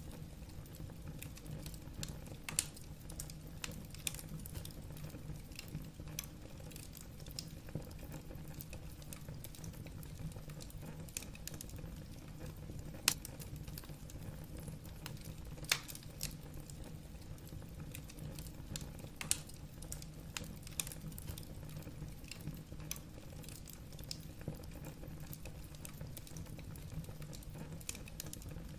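Wood burning in a fireplace, crackling with irregular small pops and a few louder sharp snaps, over a steady low rumble of the fire.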